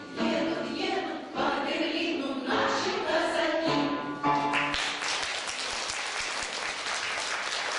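Veterans' choir singing the last phrase of a song, then audience applause breaking out a little over halfway through and continuing.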